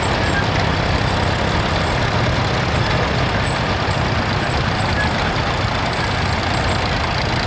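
Vintage farm tractor engine running steadily at low speed.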